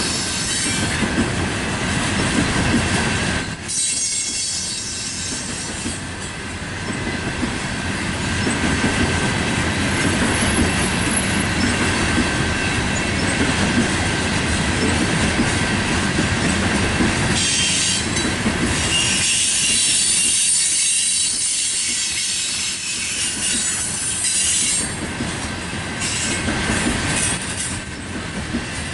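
Coal train gondola cars rolling past: a steady rumble and clatter of steel wheels on rail, with a thin high wheel squeal held over it. The low rumble eases twice, about four seconds in and again about two-thirds of the way through.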